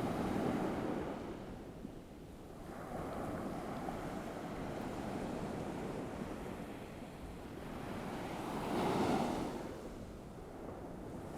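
Ocean waves washing onto a shore, with a soft hiss of surf. The sound swells at the start and again about nine seconds in, then ebbs back.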